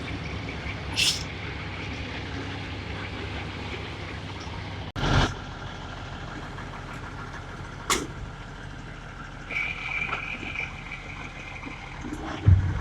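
Heavy truck engine running steadily, with a thump about five seconds in and a few short knocks.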